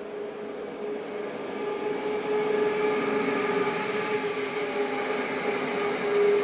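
Electric train passing close by: a steady whine over the running noise, growing louder over the first two or three seconds and then holding.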